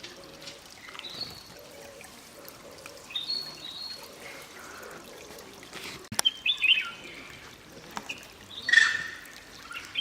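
Wild birds calling in forest: a string of short chirps and whistled phrases, the loudest near the end, over faint trickling water. A single sharp click about six seconds in.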